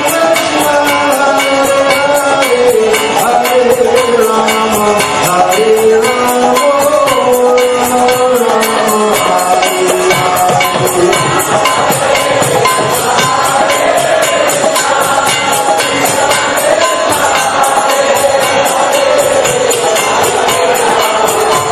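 Devotional chanting music: a voice singing a gliding melody over steadily repeating jingling metal percussion.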